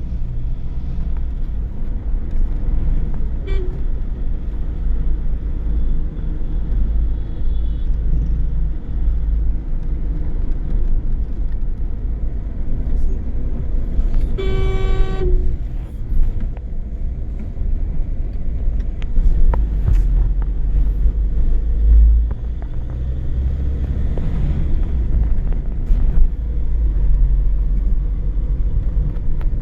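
Car driving along with a steady low engine and road rumble. About halfway through, a horn sounds once for about a second.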